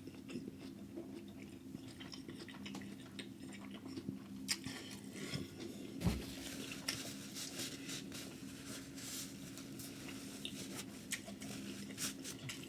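Close-up chewing of a bite of crab, rice and cucumber, with scattered small wet clicks and smacks of the mouth, over a faint steady low hum.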